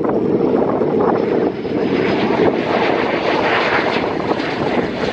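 Aircraft engine noise from a military training aircraft at the airfield: a loud, steady rushing sound, with a faint high whine in the first couple of seconds.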